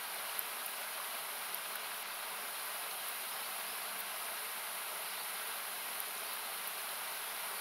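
Steady rushing of a river, cut back with an equaliser so it sounds like a hiss, with a few small sharp crackles from the wood campfire, the strongest about half a second in.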